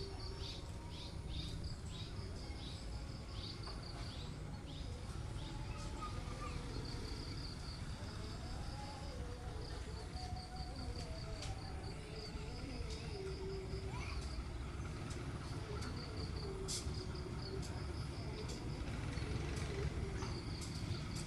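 Insects chirping in rapid pulsed trills, repeating again and again, over a steady low outdoor rumble.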